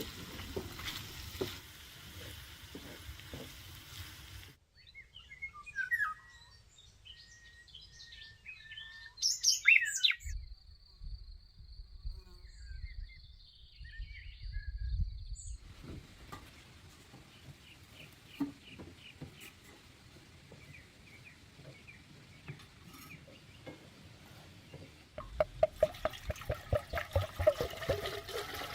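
Birds chirping in scattered short calls.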